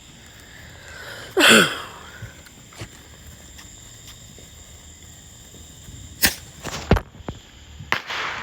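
A small firework rocket whooshing off loudly about a second and a half in, its sound sweeping down in pitch. A few sharp pops follow near the end.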